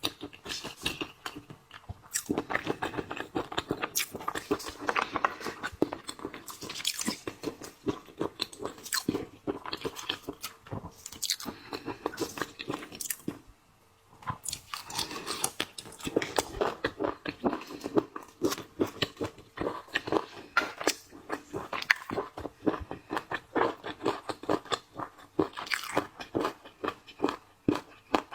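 Close-miked chewing and crunching of seafood: a dense run of sharp crackles and bites, with a brief pause about halfway through.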